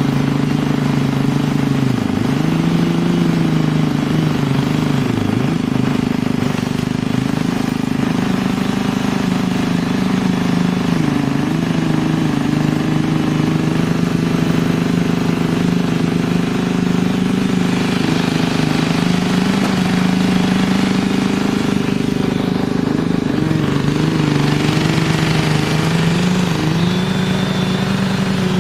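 An engine running steadily, its pitch dipping briefly and recovering several times as it takes load.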